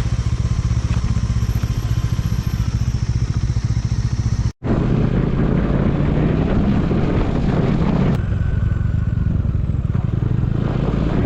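Motorcycle engine running while the bike is ridden, with a steady rapid pulse. The sound drops out for a moment about four and a half seconds in, then carries on.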